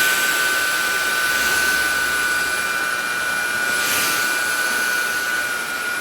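Cordless stick vacuum running on its third power setting: a steady high motor whine over the rush of air through the nozzle, the hiss swelling briefly about four seconds in.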